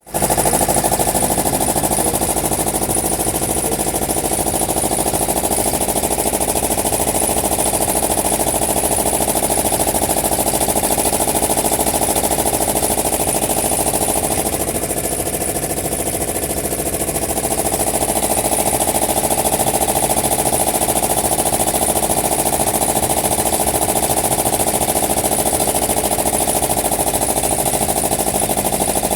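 Diesel engine of a wooden boat running steadily with a fast, even knocking beat, heard up close on board; it eases off a little about halfway through, then picks up again.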